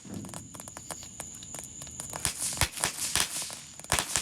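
A small consumer firework going off with a run of sharp crackling pops. The pops come sparsely at first, then denser and louder from about halfway, and a thin high whine is heard in the first half.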